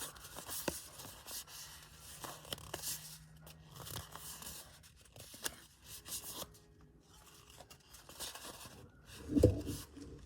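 Foil wrapper of a trading card pack crinkling and tearing, and cards rustling as they are handled, in irregular spurts with small clicks. A dull knock near the end.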